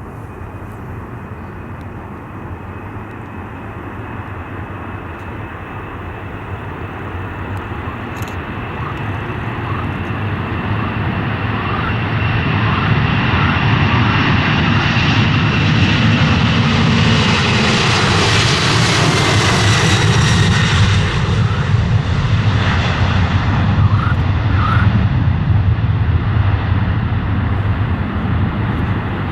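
Airliner flying past close by, its engine noise swelling steadily and loudest about two-thirds of the way through, with a whine that falls in pitch as it goes by.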